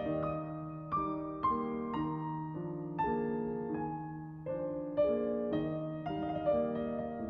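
Background piano music: soft, slow chords with a melody on top, new notes struck every half second or so.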